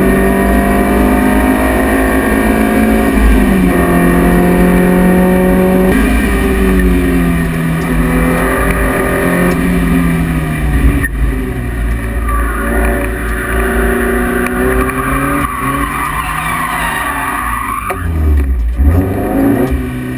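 Lotus Elise S1's 1.8-litre Rover K-series four-cylinder heard from inside the cabin on track, revving up under acceleration and dropping away under braking into corners, with quick throttle blips on downshifts near the end.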